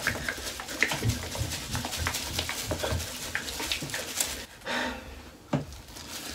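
Liquid hair dye mixture sloshing in a plastic applicator bottle as it is shaken hard, in rapid irregular strokes that ease off about four seconds in.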